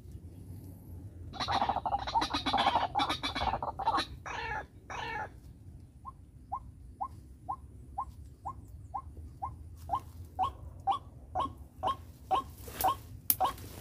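White-breasted waterhen calling. About a second in comes a loud, harsh flurry of squawks, then two separate calls, then a regular series of short calls a little over two a second that grows louder near the end.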